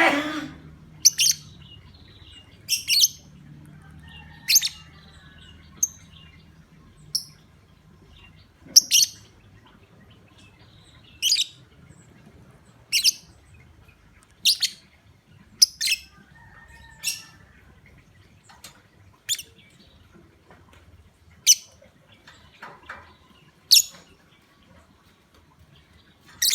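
Lovebird giving short, sharp, high-pitched chirps, one every second or two. This is a 'pancingan', a lure call played to get other lovebirds calling.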